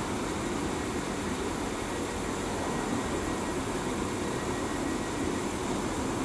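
Northern Class 195 diesel multiple unit running slowly towards the platform, a steady, even sound of its diesel engine and wheels on the rails.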